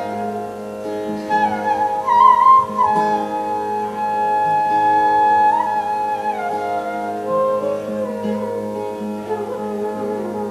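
Flute playing a slow, gliding, ornamented melody in Indian classical style over a steady held drone, with one long sustained note in the middle.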